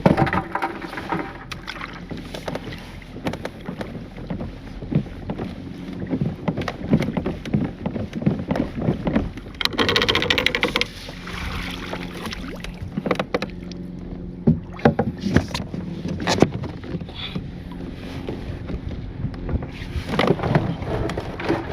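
Knocks and clatter on a kayak as a blue crab is handled and measured, with a short rushing noise about ten seconds in.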